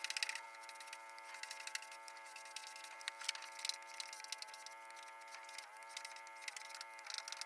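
Electric belt file running at a steady whine while grinding rust spots on a car's steel roof down to clean metal. Its pitch dips briefly a few times in the last couple of seconds as it is pressed into the work, with light ticking from the abrasive.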